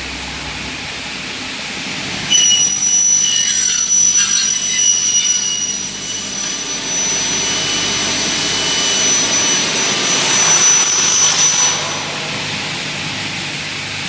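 Double-head aluminium cutting saw running. About two seconds in it jumps to a loud, steady high-pitched whine with hiss, which eases off near the end.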